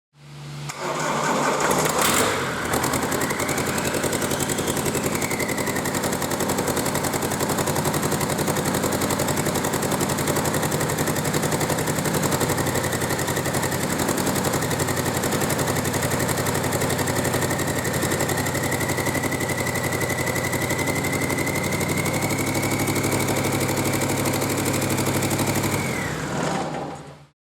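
Fiat Stilo 1.9 JTD four-cylinder turbodiesel engine on a test stand, starting within about two seconds and then idling steadily with diesel clatter and a faint high whine. It shuts off near the end.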